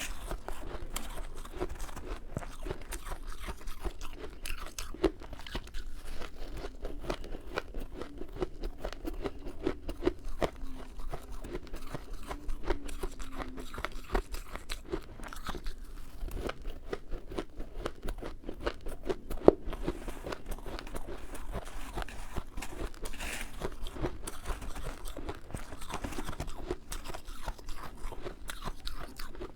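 Freezer frost being bitten and chewed, a dense run of crackling crunches, with one much sharper crunch about two-thirds of the way through.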